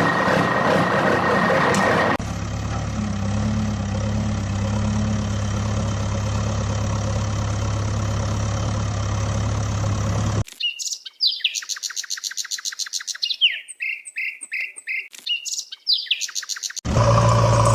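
A steady engine hum, then about six seconds of rapid, repeated high bird chirps with hushed gaps between them, and the engine hum returning near the end.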